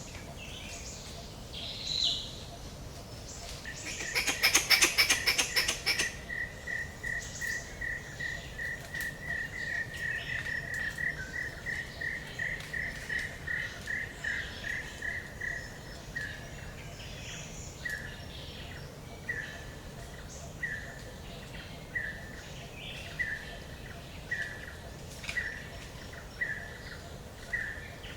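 Forest birds calling: a couple of high chirps, then a loud rapid run of sharp taps lasting about two seconds, under which a bird starts repeating a short whistled note, quickly at first and then slowing to about one note every second and a half.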